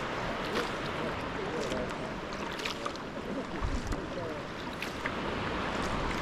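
Sea kayak paddling on open water: paddle blades dipping and dripping, with irregular small splashes against a steady wash of sea water.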